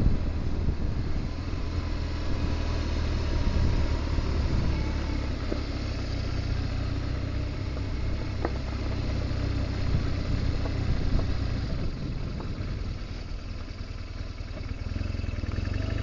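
BMW R1200GS Adventure's boxer-twin engine running steadily as the motorcycle is ridden at low speed, easing off a little near the end.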